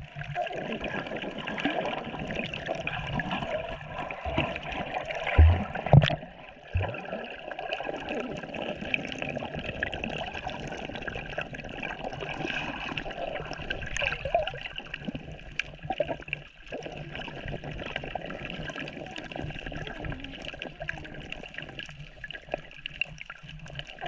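Sea water sloshing and gurgling around a camera filming in shallow water, with a few sharp knocks about five to seven seconds in.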